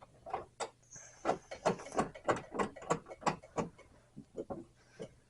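Ratchet clicking in a quick run, about three or four clicks a second, as a bolt is tightened to fix a TV mounting arm to the back of the TV; the clicks thin out near the end.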